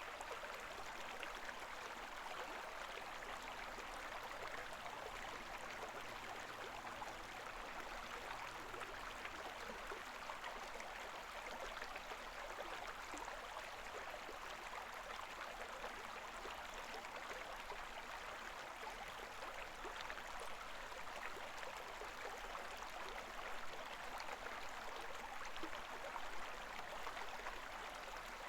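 The Koma River's shallow current babbling steadily over stones: an even rush of flowing water with fine bubbling and splashing.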